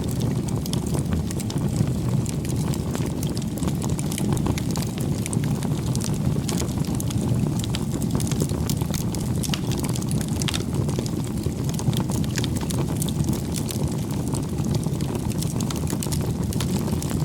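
Wood bonfire burning: a steady low rush of flame with frequent small crackles and pops from the wood.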